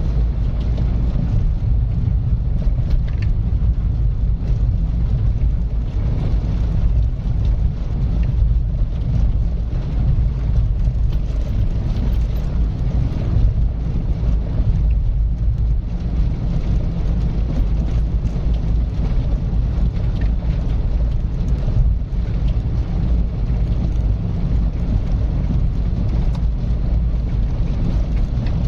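Car driving steadily at a constant pace: a continuous low rumble of engine and road noise with a light hiss over it.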